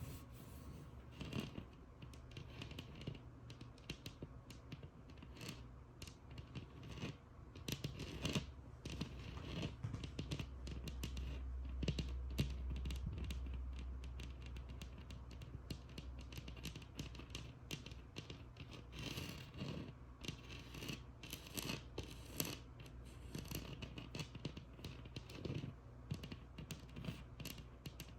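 Tapping and scratching on a textured wall: many quick, irregular taps mixed with scratchy strokes. A low rumble comes in for several seconds around the middle.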